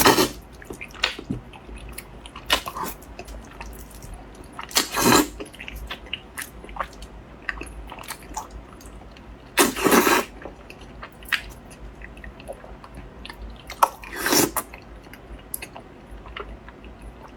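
Close-miked wet chewing of gelatinous braised pork knuckle skin, full of small sticky clicks, with a louder wet slurp about every four to five seconds.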